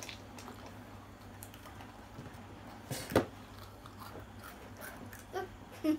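Children chewing and eating snacks, with soft mouth sounds and one sharp knock about three seconds in.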